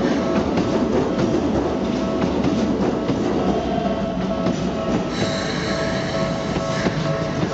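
Keikyu 1500 series electric train passing over a level crossing, its wheels clattering over the rail joints under a steady rumble, with a few steady tones running through it. About five seconds in a high squeal rings out for under two seconds.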